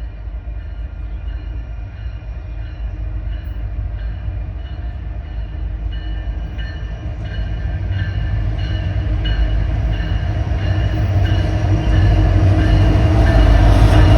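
A train approaching, its low rumble growing steadily louder, with faint regular ticks coming in during the second half.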